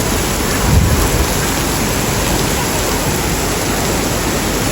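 Torrential typhoon-driven rain pouring down in a dense, steady hiss, with a brief low rumble about a second in.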